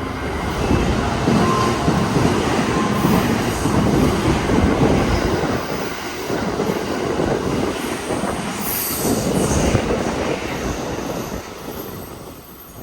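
683 series electric express train passing through the station at speed without stopping: loud rumble and rattle of wheels on rail that builds within the first second, holds for about ten seconds and fades near the end, with a brief high squeal about nine seconds in.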